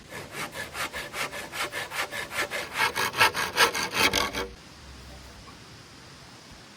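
Hand saw cutting in quick, even back-and-forth strokes, getting louder toward the end and stopping about four and a half seconds in.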